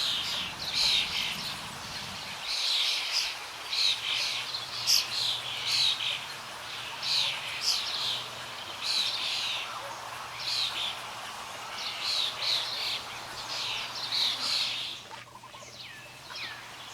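A bird calling over and over, a steady run of short, high chirps, about one or two a second, with a brief pause near the end.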